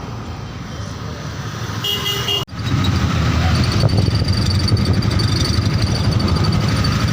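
Road traffic noise with a vehicle horn tooting briefly about two seconds in. After an abrupt cut, a louder, steady low vehicle rumble follows.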